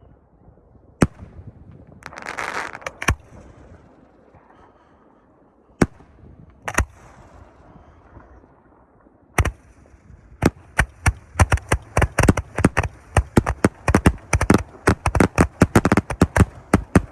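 Fireworks going off: a few separate bangs with a short hiss among them, then from about ten seconds in a rapid run of bangs, about four or five a second.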